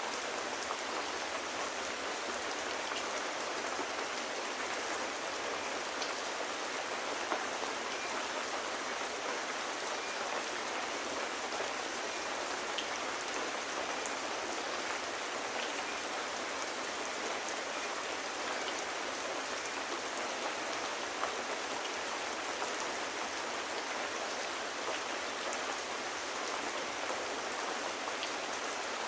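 Steady rain, an even hiss with occasional faint ticks.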